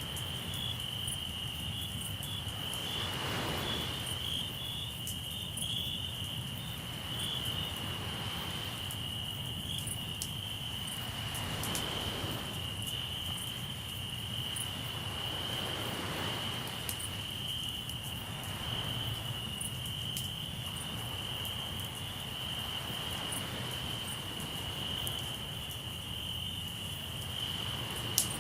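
Crickets chirping in a steady high trill, over sea waves washing in and out every few seconds and the light crackle of a campfire, with one sharp pop from the fire near the end.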